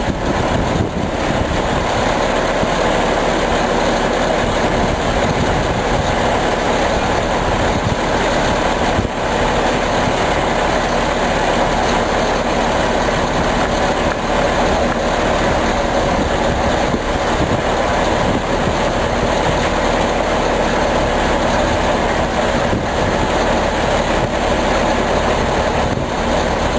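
A heavy hooklift truck's diesel engine running steadily, a continuous even noise with no distinct knocks or breaks.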